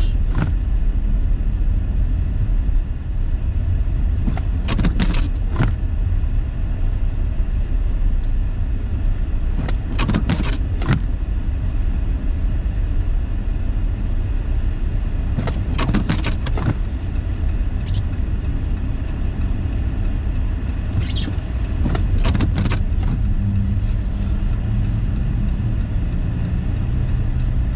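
Car interior noise while driving slowly through snow: a steady low rumble of engine and tyres, with short clicks recurring about every five seconds.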